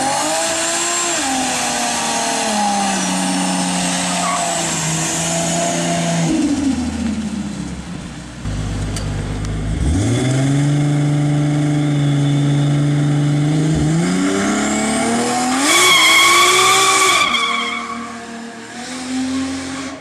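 Toyota Supra MK4's 2JZ-GTE twin-turbo inline-six driven hard, its revs rising and falling, with tire squeal. About eight seconds in the revs drop to a low rumble, then climb to a long steady high note. A brief burst of squeal comes near the end before the sound fades.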